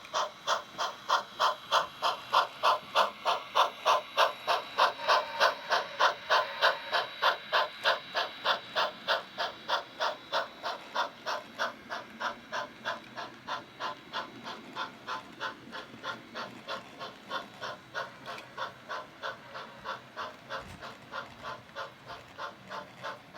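Steam locomotive exhaust chuffing in an even rhythm of about three to four beats a second as a narrow-gauge train passes. It grows louder, then slowly fades away.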